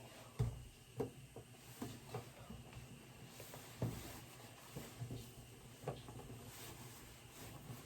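Scattered light knocks and clicks, irregular and a few per second, over a low steady hum: handling and moving-about sounds in a small room.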